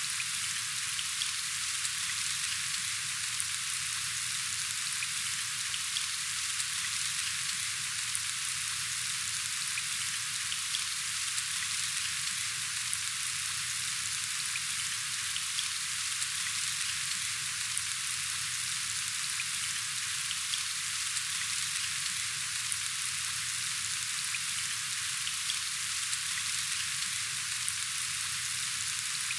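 Steady rain falling: an even hiss with fine ticks of individual drops that holds unchanged throughout.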